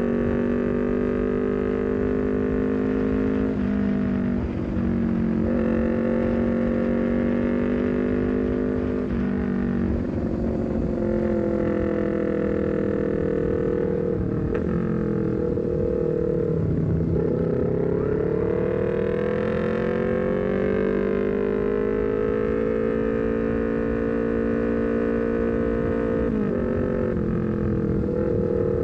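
Honda CBR250RR's parallel-twin engine through a Leovince GP Corsa carbon silencer on an R9 full-system header, under way at fairly steady revs. The pitch drops briefly a few times as it changes gear, sinks in the middle, then climbs slowly again.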